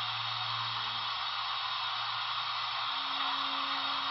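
HO-scale Broadway Limited Paragon4 sound-equipped model steam locomotive under load in a pulling-power test: a steady hiss with a low motor hum that steps up in pitch about three seconds in.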